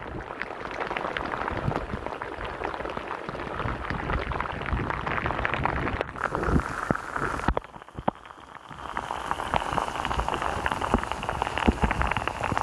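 Heavy rain pouring down, dense drops pattering close to the microphone, with a brief dip about eight seconds in.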